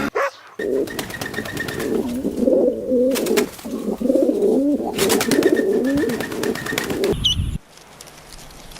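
Several pigeons cooing over one another in low, wavering calls, which stop abruptly about seven seconds in.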